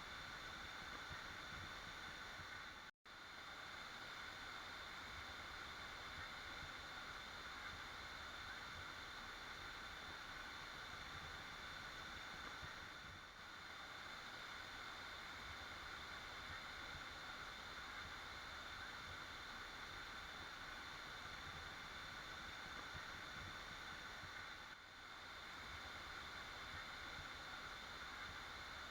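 Waterfall rushing steadily, a faint even wash of water noise. About three seconds in it cuts out completely for a split second, a gap where the recording is spliced or looped.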